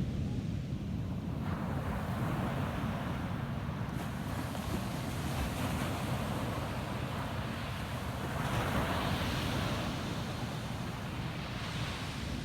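Ocean waves breaking and washing up a beach: a steady hiss of surf that swells about a second and a half in, with a louder wave surging in about two-thirds of the way through. A low wind rumble on the microphone runs underneath.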